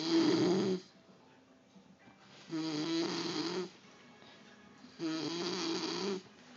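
Snoring in a steady breathing rhythm: three loud, raspy snores about two and a half seconds apart, each lasting about a second, with a wavering pitched buzz in each.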